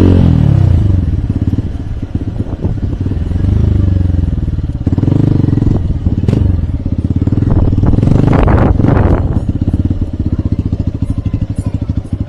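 Hero Hunk motorcycle's single-cylinder four-stroke engine running under way: the revs drop at the start, then rise and fall again as the bike is ridden, with a brief rush of noise about eight seconds in.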